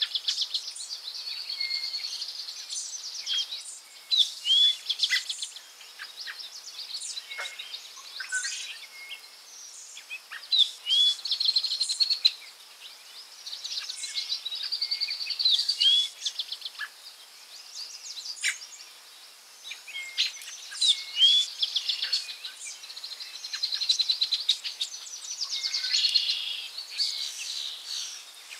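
Forest birdsong: birds singing in repeated phrases of short swooping notes that run into a fast, high trill, a new phrase every four to six seconds.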